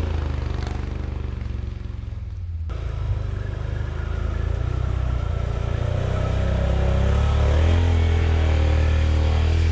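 ATV engine running under load while driving through snow, its pitch dipping and rising with the throttle.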